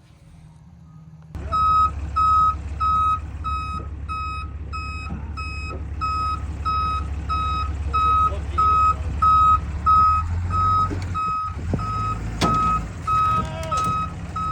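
A vehicle's reversing alarm starts about a second and a half in and beeps steadily on one pitch, about three beeps every two seconds, over its engine running as it backs up.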